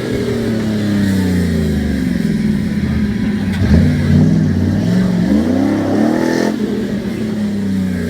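Jeep J-series pickup's engine revving under load, its pitch sagging, then rising and falling several times as the throttle is worked.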